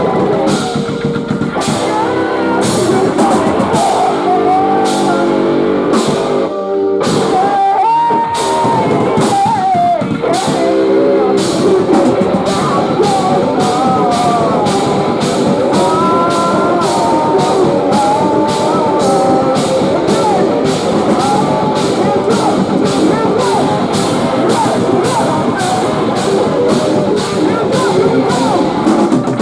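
Live post-hardcore band playing loud: distorted guitars, a steady drum beat and vocals, with a short full stop about seven seconds in before the band crashes back in.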